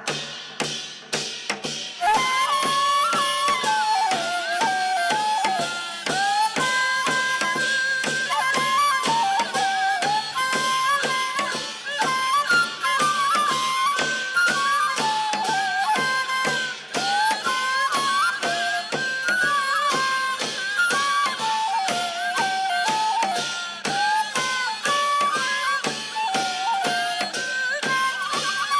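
Korean shamanic ritual music played by traditional instruments: an ornamented wind-instrument melody over steady drum strokes.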